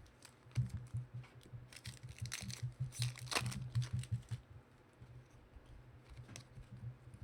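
Foil trading-card pack wrapper being torn and crinkled while the cards are handled, in a run of short crinkly clicks that thins out and quiets after about four seconds, over a steady low hum.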